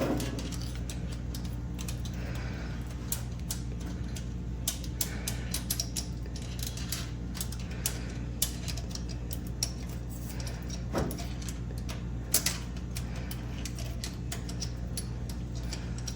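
Scattered light clicks and taps of hand tools working on an engine's top end, over a steady low hum.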